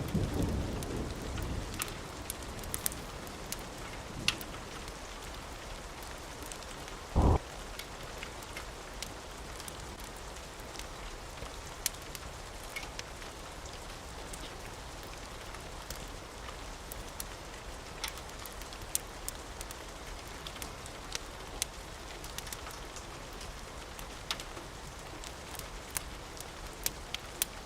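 Steady rain, with the last of a thunder rumble fading over the first couple of seconds. Scattered sharp crackles run throughout, and one short, loud low thump comes about seven seconds in.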